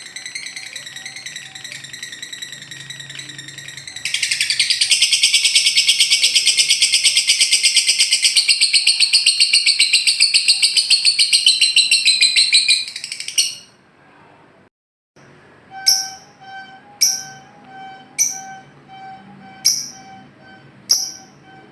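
Songbird calls: a long, very fast, high trill that stops about thirteen seconds in. After a short gap comes a series of sharp, high chirps about one a second.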